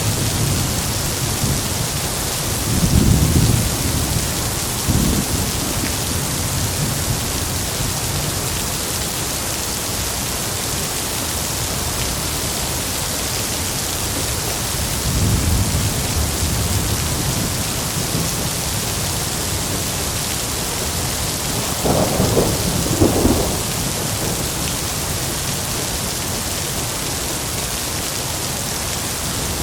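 Heavy rain falling steadily with rolling thunder: low rumbles swell about three seconds in, again around fifteen seconds, and two sharper claps come close together about twenty-two seconds in.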